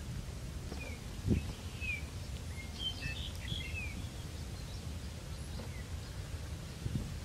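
Birds chirping in short, falling notes, most of them about three to four seconds in, over a steady low rumble, with a single thump about a second in.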